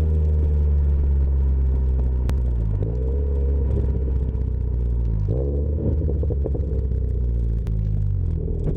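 Subaru flat-four running at low revs through an aftermarket exhaust, a deep steady drone. The pitch dips briefly twice, about three and five seconds in.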